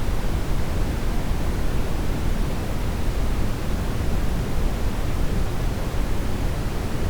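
Steady brown noise: an even, deep rushing hiss, heaviest in the low end and thinning toward the highs, with no breaks or changes.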